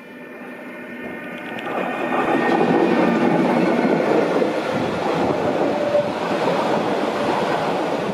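Wheel-and-rail rumble of Matterhorn Gotthard Bahn metre-gauge trains, swelling over the first two seconds as a second red train comes up close alongside on the next track, then running loud and steady.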